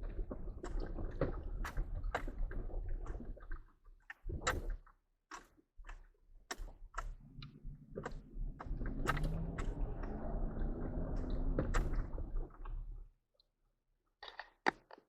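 Inside a 4x4's cab on a rough road: low engine rumble with the pitch rising briefly partway through, under many sharp knocks and rattles as it jolts over ruts. Near the end the engine noise drops away, leaving a few clicks.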